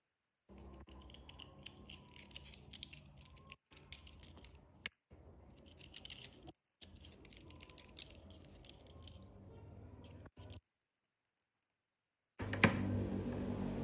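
Light metallic clinking, tapping and scraping of hand tools on metal parts, broken by abrupt cuts to silence. Near the end a louder stretch begins with a sharp knock and carries a steady low hum.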